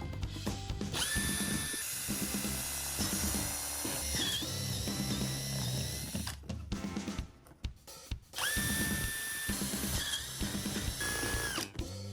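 Power drill running in two long stretches, a steady whine that starts about a second in, stops around the middle, and starts again, over background music.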